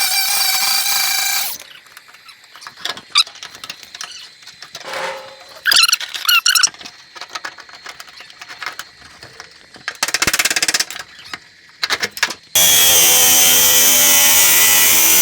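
Power cutting tool whining in several short runs as it cuts rusted sheet steel out of a car's rear quarter panel. It squeals with a wavering pitch midway, and a long steady high whine comes near the end.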